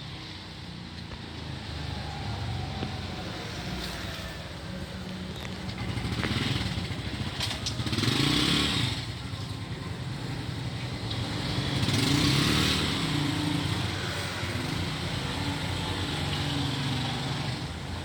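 A motor vehicle engine running steadily at low revs, swelling louder twice, about midway and again a few seconds later.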